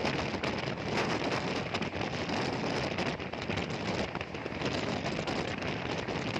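Steady rushing noise of a moving train heard at an open carriage window, with wind buffeting the microphone.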